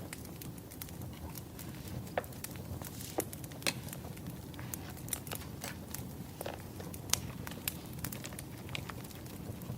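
Wood fire crackling: irregular sharp snaps and pops from burning logs over a steady low rumble.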